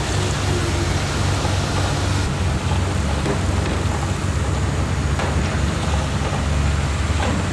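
Heavy diesel earthmoving machinery running steadily: a low engine drone under a constant hiss, with a few faint clicks.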